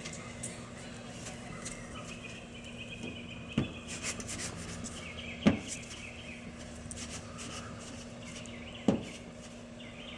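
Clay bar rubbing back and forth over car paint thick with overspray, a squeaky, scraping drag, with three sharp knocks along the way.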